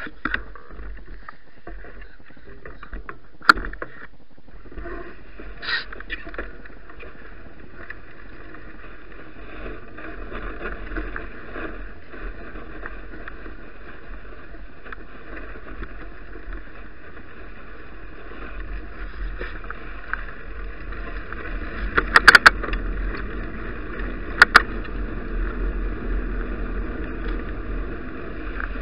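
Wind noise and tyre noise from a bicycle ride on snowy roads, with a few sharp knocks: one early, a cluster about three-quarters of the way through, and two more shortly after.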